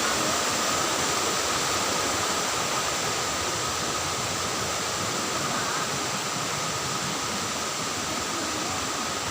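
Waterfall and its stream rushing: a steady, even hiss of falling water.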